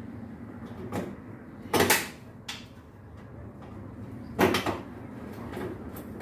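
Knocks and clunks of washing machine parts being handled during reassembly, five or so in all, the two loudest about two seconds in and about four and a half seconds in.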